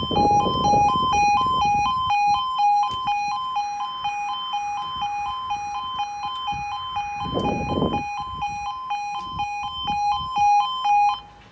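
Level crossing warning alarm: two electronic tones alternating rapidly and evenly, which cuts off abruptly near the end. A low rumble is heard near the start and again about seven seconds in.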